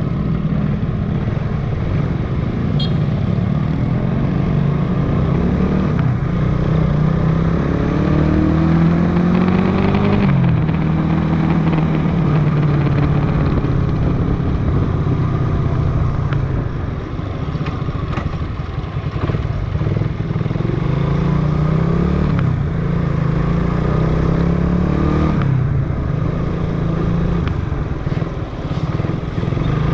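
Motorcycle engine running on the move through traffic, its pitch climbing as it speeds up twice, each climb ending in a sudden drop as the rider shifts or eases off.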